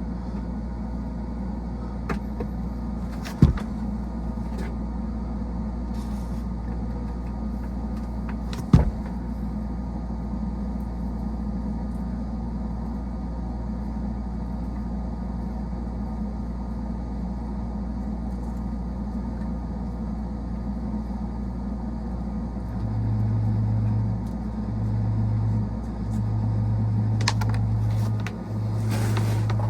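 Steady low hum of running HVAC equipment, with two sharp knocks early on. From about 23 seconds in, a louder low buzz starts and stops several times.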